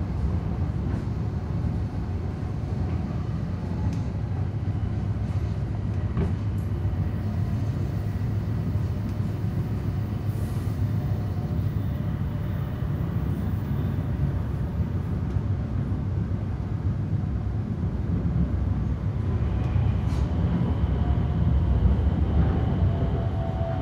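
Hokuriku Shinkansen train running, heard from inside the carriage: a steady low rumble of wheels on rail. Faint high tones come in near the end.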